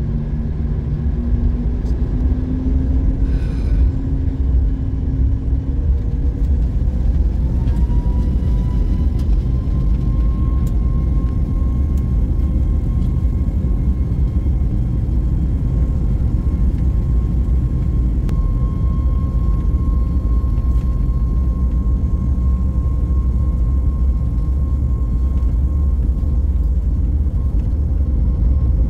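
Jet engines of a Boeing 737 MAX 8 heard from inside the cabin: a deep, steady rumble with a whine that rises over the first several seconds and then holds at a steady pitch, as the CFM LEAP-1B engines spool up.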